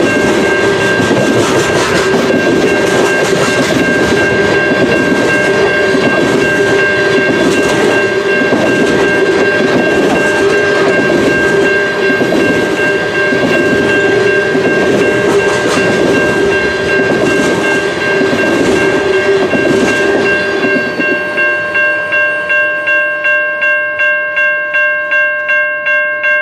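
Loaded tank cars of a long oil train rolling past, with wheel clatter over the rail joints and a steady ring from a railway crossing bell. About 21 seconds in, the last cars are gone and only the crossing bell is left, ringing at about two strikes a second.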